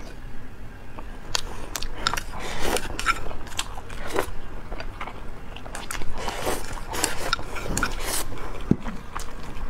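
Close-miked chewing of rice mixed with sweet-and-sour rib sauce, with many wet mouth clicks. Near the end the bowl is tipped to the mouth and there is a noisy slurp.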